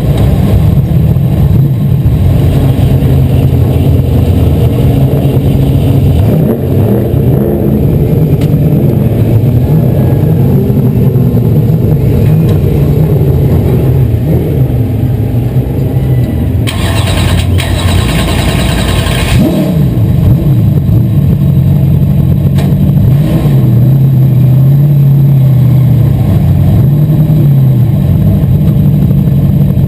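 Asphalt modified race car engine running hard under racing load, its pitch climbing and dropping again and again as it accelerates and lifts off. A hissing burst cuts in about seventeen seconds in and lasts about two seconds.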